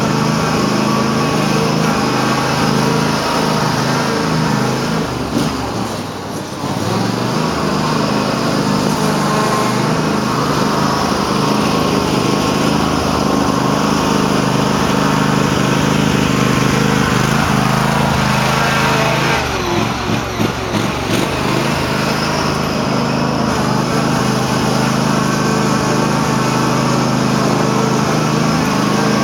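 Cub Cadet garden tractor's engine running hard at high revs while mudding. The note dips and wavers briefly twice, about six seconds in and again about twenty seconds in. The owner says the tractor is running poorly again, cause unknown.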